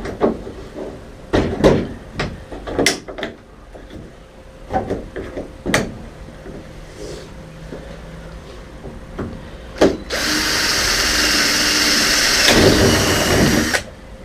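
A few scattered knocks and clicks of tools being handled, then a power drill runs for about four seconds, drilling a hole, and stops suddenly.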